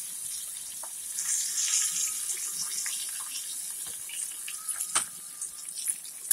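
Catfish pieces deep-frying in a small pot of hot oil: a steady sizzling hiss with scattered crackles and a few sharper pops.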